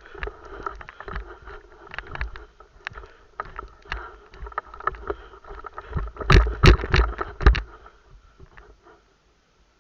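Rustling and scattered knocks, with a cluster of four loud sharp knocks between six and seven and a half seconds in, then the sound cuts off suddenly near the end.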